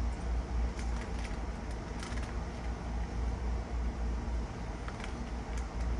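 Crunchy corn-puff snacks (Cheetos Crunchy) being bitten and chewed, a few faint crunches over a steady low rumble.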